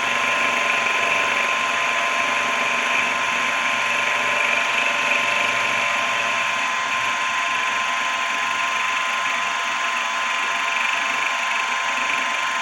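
Benchtop machine tool running steadily, a constant motor whine over an even mechanical hum.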